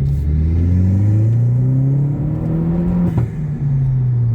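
Corsa VXR Nurburgring Edition's 1.6-litre turbocharged four-cylinder accelerating, revs climbing steadily, then dropping with a gear change about three seconds in and easing slightly after.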